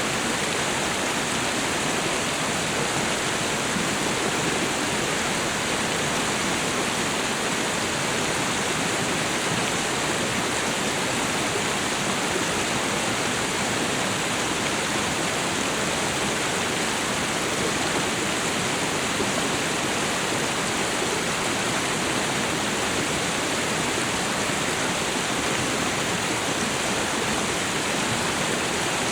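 Tropical waterfall and river rushing in a steady, even roar of falling and flowing water.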